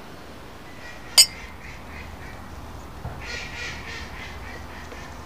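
Birds calling in quick runs of short notes, twice, the second run louder about three seconds in, with one sharp click about a second in.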